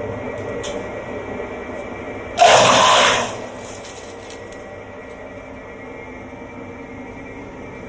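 Electric disc wood chipper running steadily with a hum of fixed tones. About two and a half seconds in there is a loud burst of noise lasting about a second as a piece of bamboo goes through the cutter disc, and then the machine runs on a little quieter.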